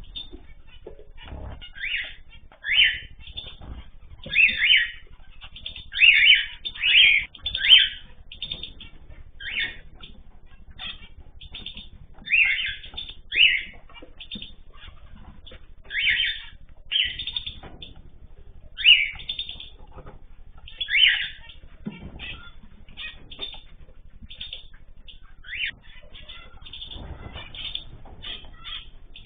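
Ornamental cage birds calling in an aviary: a busy stream of short, high chirps and calls, with louder clusters every second or two.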